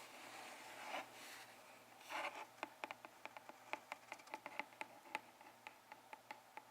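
Close-miked ASMR handling sounds: a couple of soft rustling swishes, then a run of small, sharp, irregular clicks and taps for about four seconds.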